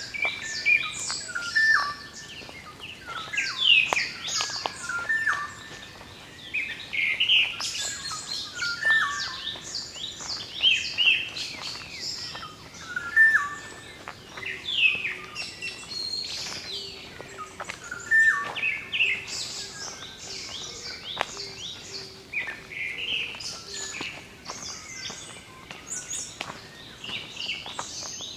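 Morning chorus of several songbirds: dense overlapping chirps and short high phrases, with one bird repeating a brief phrase of a level whistled note that steps down to a lower note every few seconds.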